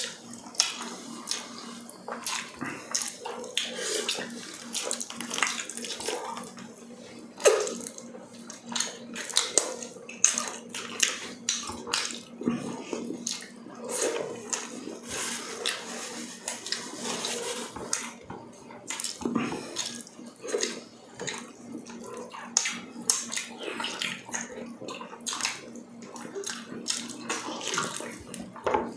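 Close-miked wet chewing and lip-smacking of two people eating balbacua stew with rice by hand: a steady run of short, sticky mouth clicks and smacks.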